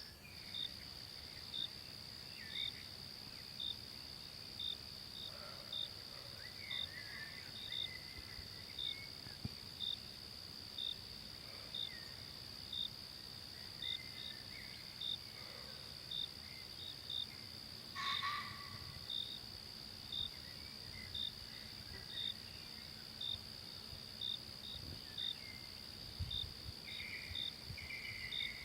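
Forest ambience of insects: a steady high-pitched insect drone with a cricket chirping evenly, a little more than once a second. Scattered faint bird calls come through, with one brief louder call about two-thirds of the way in.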